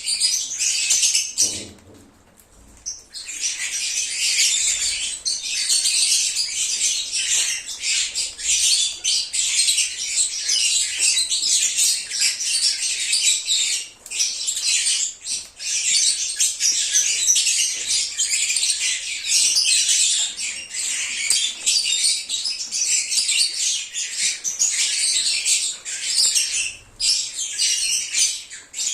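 A flock of lovebirds chattering and chirping nonstop in a dense, high-pitched mass of overlapping calls, with a short lull about two seconds in.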